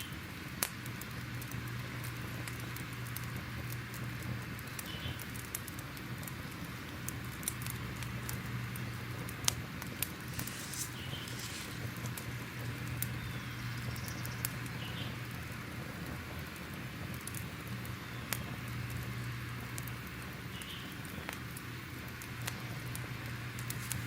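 Crackling fire: a steady hiss and low rumble with irregular sharp pops and snaps, one loud snap about nine and a half seconds in.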